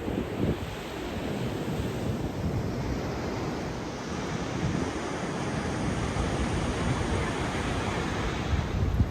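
Ocean surf washing in, its hiss building through the second half, with wind buffeting the microphone.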